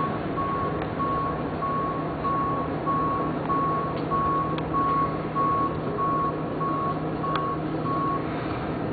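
A vehicle's reversing alarm beeping at an even pace, a little under two beeps a second on one steady pitch, stopping shortly before the end, over a steady background hum.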